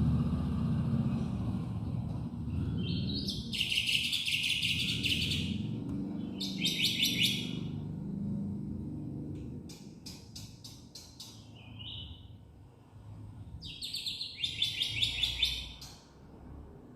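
Black-winged starling (jalak putih) singing in several bursts of harsh, chattering phrases and runs of rapid clicking notes, with pauses between them, over a low rumble that fades about halfway through.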